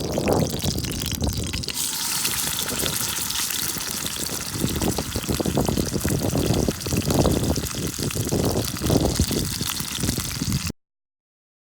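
Running water with a steady trickling, gurgling rush and a few heavier surges; it cuts off abruptly near the end.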